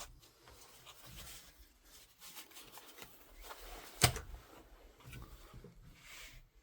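Faint rubbing and handling of airsoft rifle parts, with one sharp knock about four seconds in.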